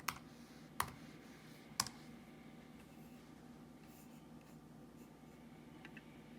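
A few sharp computer mouse clicks, about a second apart, then a faint double click near the end, over a steady low hum.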